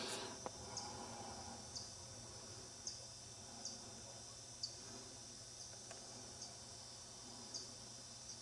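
Insects calling: a steady high-pitched drone with short sharp chirps repeating about once a second. A brief rustle sounds right at the start.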